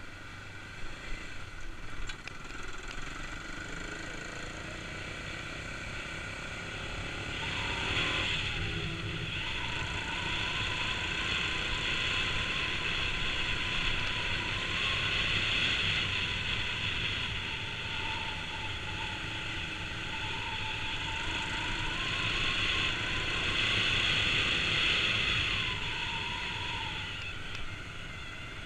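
Kawasaki KLX250's single-cylinder four-stroke engine running on the ride. The revs climb and get louder about eight seconds in, hold up with small rises and dips for most of the rest, then ease off near the end.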